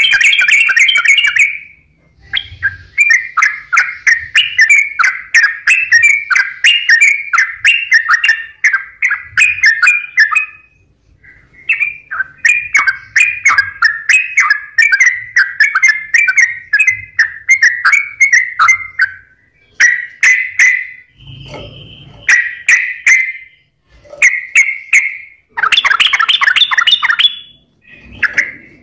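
Yellow-vented bulbul (trucukan) in full song: long runs of quick, chattering notes in phrases several seconds long, broken by short pauses.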